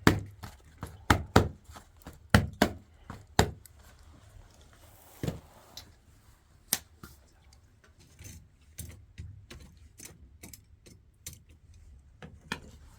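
A run of sharp clicks and knocks, quick and loud for the first few seconds, then sparser and quieter.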